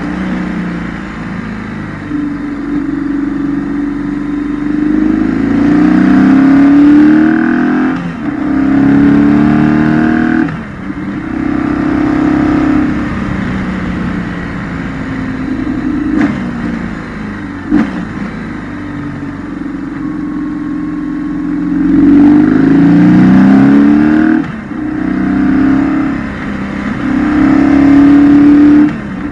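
2008 BMW R1200GS's boxer twin engine, heard onboard, repeatedly pulling up in pitch under throttle and then dropping back at brief dips as the throttle is closed or a gear is changed. It is ridden through a series of curves.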